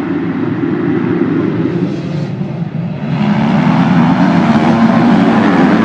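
A field of motocross bikes running together at high revs, a dense engine din with no single machine standing out. About three seconds in it gets suddenly louder and brighter and stays so, as the pack opens up off the start.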